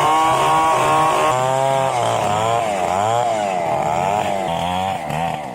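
Large two-stroke chainsaw running at high revs while cutting timber into planks. From about a second and a half in, its pitch repeatedly dips and recovers as the chain loads up in the wood.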